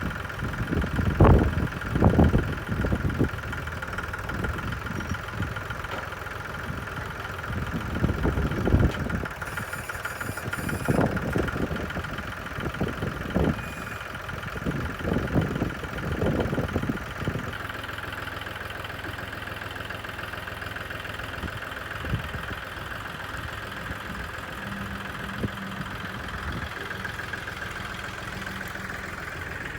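Tractor engine running steadily, with a series of loud thumps and knocks through the first half, then running on evenly.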